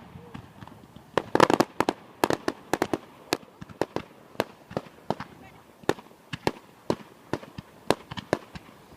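Fireworks going off: an irregular run of sharp bangs and cracks, a few a second, with a quick cluster about a second and a half in.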